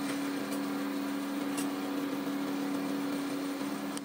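A steady machine hum: one constant low tone with an even hiss over it.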